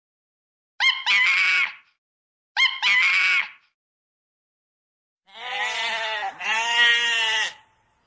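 Goats bleating: two short, high-pitched bleats, then a longer, lower bleat in two parts starting about five seconds in.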